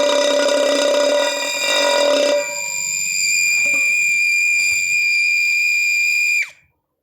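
Homemade electronic bird-trapping sound device sounding a loud, steady, alarm-like tone. About two seconds in its lower note drops out, leaving a thinner high tone, which cuts off near the end with a quick falling pitch as it is switched off.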